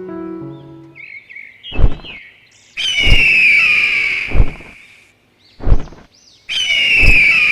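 Horse whinnying twice, each long call falling in pitch, with heavy hoof thuds between and around the calls and a few short chirps before the first.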